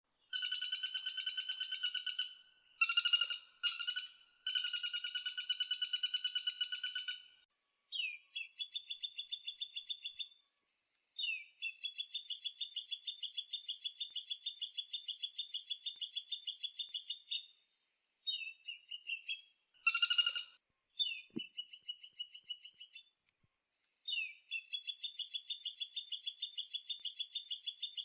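Woodpecker calls: a series of high, fast rattling trills made of rapidly repeated notes. They come in bouts of a second to several seconds, separated by short pauses.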